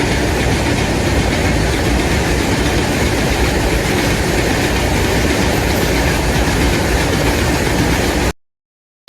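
Train passing at speed: a loud, steady rumble and rail noise with no crossing bell over it, cutting off abruptly about eight seconds in.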